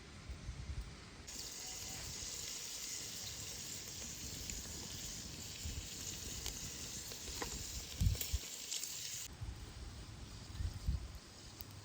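Food sizzling in hot oil, a steady hiss that starts suddenly about a second in and cuts off suddenly near the end, with a few low knocks and a thump.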